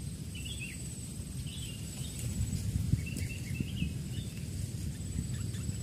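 Outdoor forest ambience: a few short bird chirps over a steady high-pitched insect whine, with a low rumbling noise underneath.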